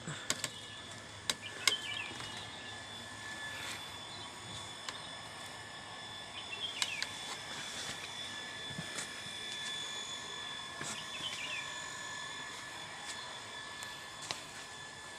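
Scattered sharp knocks and taps of a person climbing down a bamboo ladder with wooden rungs, the loudest about two seconds in. Under them runs a steady high-pitched ringing background, with a few short chirps.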